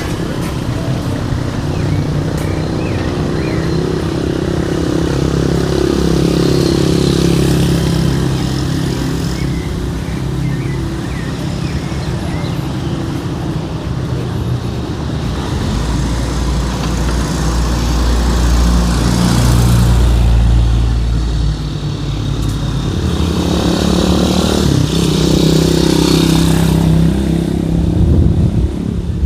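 City street traffic: motor vehicle engines running steadily, with vehicles passing close by and swelling louder a few times, the loudest near the middle and again near the end.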